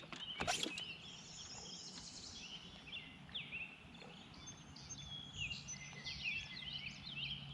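Several songbirds singing and calling over one another, a steady stream of short chirps and quick whistled sweeps, with a couple of sharp clicks about half a second in.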